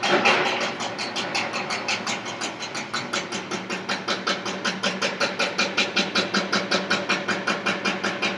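Construction jackhammer pounding in a fast, even rhythm of about five or six blows a second, over a steady engine hum.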